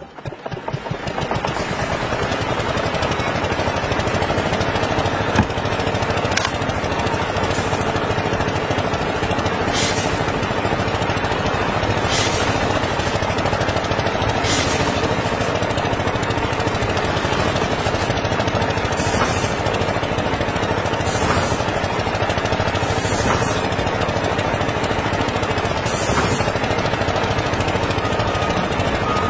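Small diesel engine of a homemade mini tractor running steadily at a constant speed.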